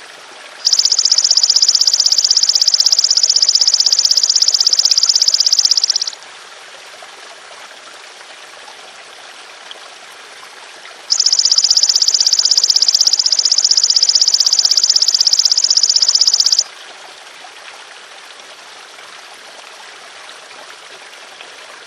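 Golden grasshopper (belalang emas) insect singing two long, high, rapidly pulsed buzzing trills of about five seconds each, with a pause between, over a steady trickle of running water.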